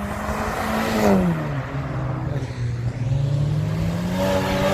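A car engine at high revs accelerating hard past. Its note falls sharply about a second in, holds low, then climbs steadily again near the end.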